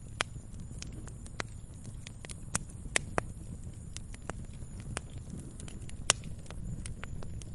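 Wood fire in a fireplace crackling, with irregular sharp pops over a steady low rumble of the flames; one pop about six seconds in stands out as the loudest.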